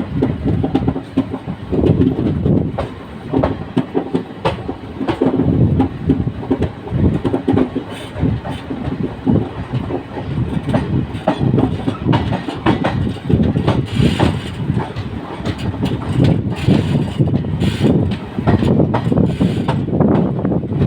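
Indian Railways passenger express running on the track: a steady rumble from the coaches with repeated, irregular wheel clatter over rail joints.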